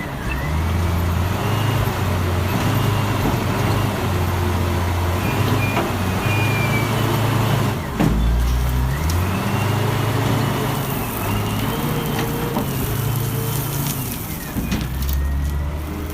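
Loader engine running continuously, its drone stepping between a lower and a higher pitch every second or two as it works. Faint rising-and-falling whines sound above it, with a short thump about eight seconds in.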